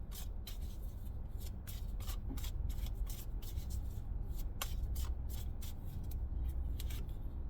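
A tarot deck being shuffled by hand: quick, irregular card riffles and snaps, several a second, over a steady low hum.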